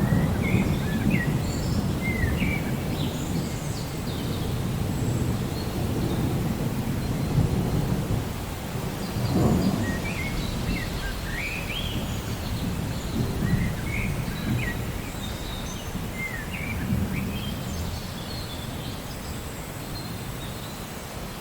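Steady rain with low rolling thunder that is loudest at the start and slowly dies away, with a brief swell about nine seconds in. Small birds chirp in short rising calls throughout.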